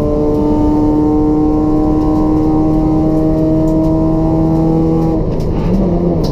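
Toyota Etios race car's 1.5-litre petrol engine with a free-flow exhaust, running hard at a steady, nearly constant pitch. About five seconds in, the steady note breaks off and the engine settles into a different, lower pitch.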